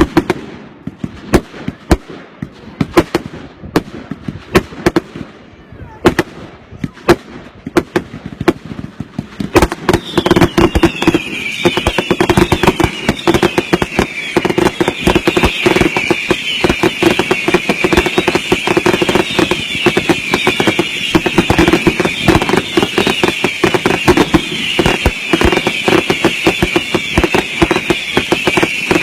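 Consumer fireworks going off: loud separate bangs at first, then about ten seconds in a dense barrage of rapid-fire cracks with many overlapping high whistles that carries on.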